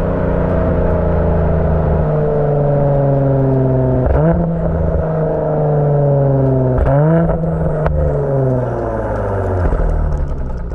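Mercedes C43 AMG's twin-turbo V6 running through a Secretflow valved aftermarket exhaust, its note slowly sinking and then jumping up quickly twice, about four and seven seconds in, with a few sharp crackles.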